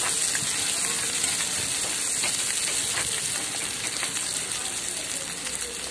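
Chopped onions frying in hot oil in a kadhai, a steady sizzle, stirred with a spoon that scrapes and clicks against the pan now and then.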